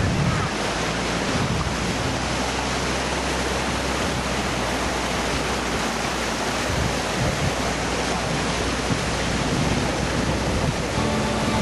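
Rushing water of a forest stream's rapids: a steady, full hiss that does not let up.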